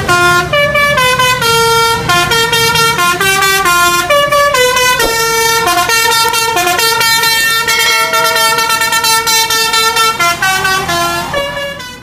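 Multi-tone 'telolet' horn playing a fast melody of short, shifting notes with brief breaks between them, ending near the end.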